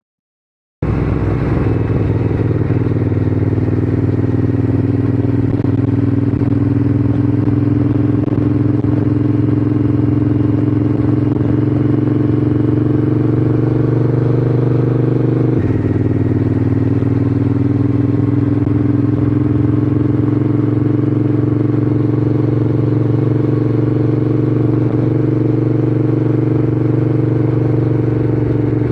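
Triumph Scrambler 900's parallel-twin engine running under way, cutting in suddenly just under a second in, its pitch creeping slowly up as it pulls. About halfway through the pitch drops suddenly, as the bike shifts up a gear, then climbs slowly again.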